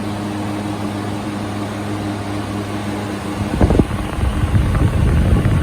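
Room air cooler running: a steady motor hum and fan rush. About halfway through, a louder, irregular low rumbling comes in, with one loud burst at its start.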